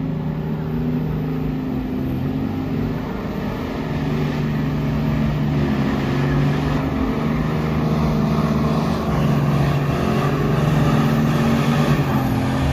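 Truck engine held at high revs, its pitch stepping up and down, then falling away near the end as the throttle is let off.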